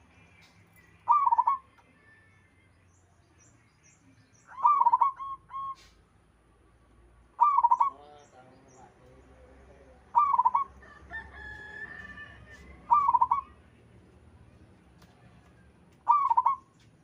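Zebra dove cooing: six short coos, about three seconds apart. Fainter chirps of other birds come in between.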